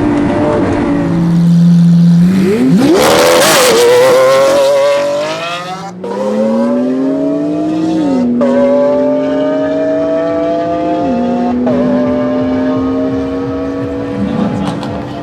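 Lamborghini Aventador V12 engine under hard acceleration. A sharp rev early on is followed by pulls through the gears: the engine note climbs steadily in each gear and drops suddenly at three upshifts.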